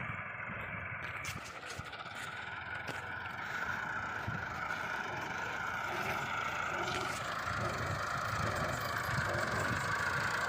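Heavy farm machinery engine running steadily, slowly getting a little louder.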